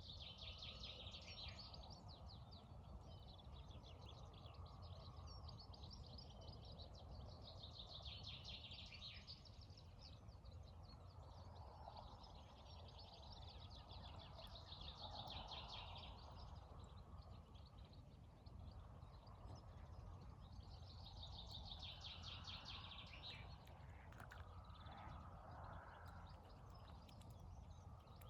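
A songbird singing rapid high trills, phrases of about two seconds repeated every several seconds, with fainter calls from other birds, over a steady low background rumble.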